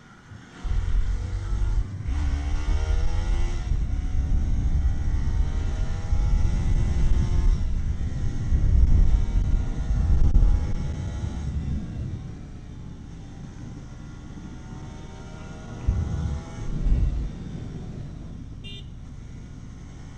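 Bajaj Pulsar NS200's single-cylinder engine revving up through the gears under hard riding, with heavy wind rumble on the microphone. After about twelve seconds the engine eases off to a quieter run, then picks up briefly once more.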